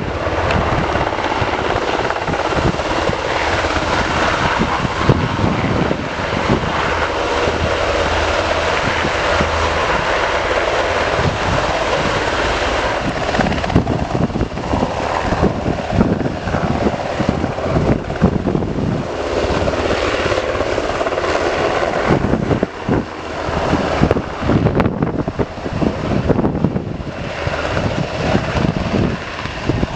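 Helicopter running loud and steady, its noise growing more uneven over the last several seconds.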